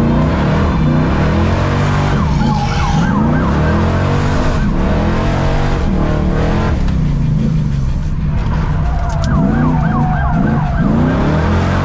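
Muscle car engines revving up and down over and over, the pitch sweeping repeatedly, with tires squealing.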